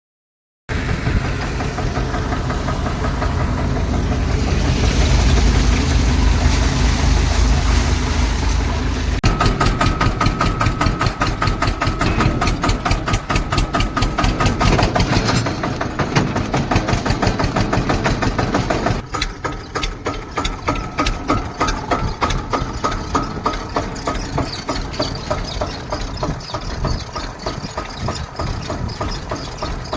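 Eicher 241 tractor's single-cylinder diesel engine running with a rapid, even chugging. The note changes about nine seconds in, and the engine drops somewhat in level about nineteen seconds in.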